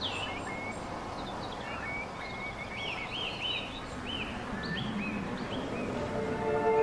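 Small birds chirping with short, repeated arching calls over a steady outdoor hiss. Sustained music fades in near the end.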